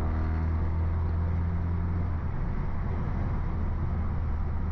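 BMW F30 328i's turbocharged four-cylinder engine through a straight-piped exhaust, a steady low drone at constant engine speed while driving, with road noise.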